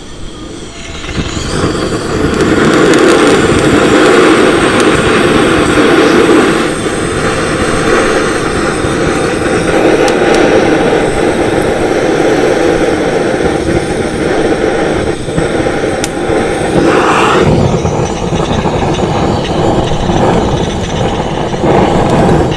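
Handheld gas torch burning with a steady rushing flame, starting about a second and a half in, used to light a campfire without kindling.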